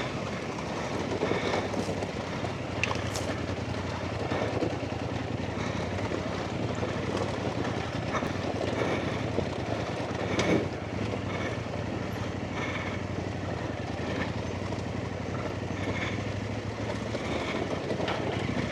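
Off-road motorcycle engine running steadily at low revs along a stony lane, with a few sharp knocks from the stony track.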